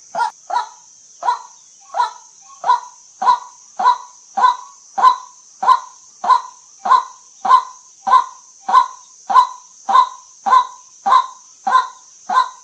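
White-breasted waterhen calling: a monotonous series of short, harsh 'kwak' notes, about one every 0.6 seconds, over a steady high hiss.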